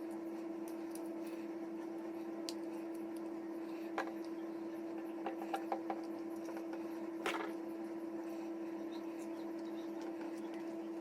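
Steady hum from a 2009 Kia Sportage with a few sharp knocks from under the dash: a single knock, then a quick run of four, then a stronger one. This is the under-dash knocking tied to the climate control's mode setting.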